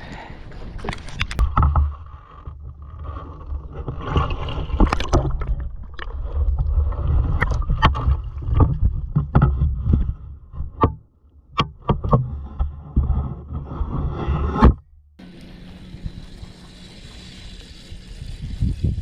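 Irregular knocks, clicks and clatter of gear being handled in a small fishing boat over a low rumble; about fifteen seconds in the sound changes abruptly to a steady hiss.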